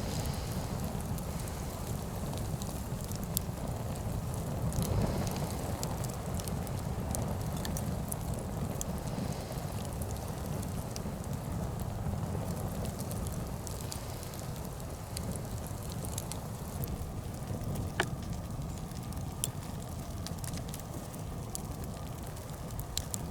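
Nodya log fire burning, a steady low rush of flame with scattered crackles and sharp pops from the burning wood.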